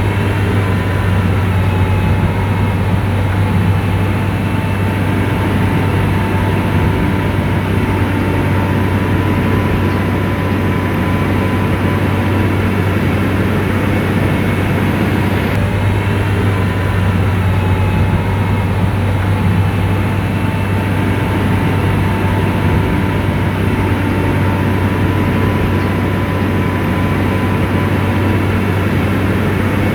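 SDLG motor grader's diesel engine running steadily, a deep even drone with a faint steady whine above it.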